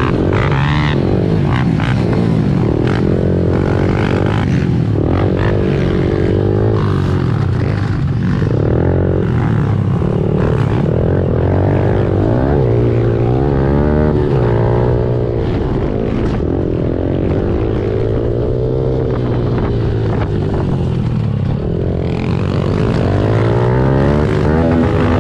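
Honda CRF110F pit bike's small single-cylinder four-stroke engine being ridden hard, its pitch repeatedly climbing as the throttle opens and dropping back on shifts and braking.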